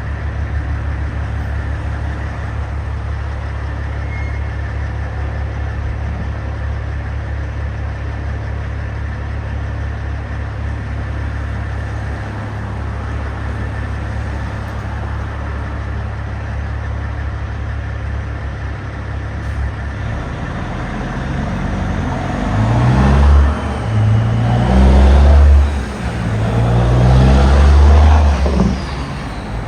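Large construction truck's engine idling steadily with a low drone. From about twenty seconds in it revs up repeatedly and gets louder, its pitch climbing in a series of steps.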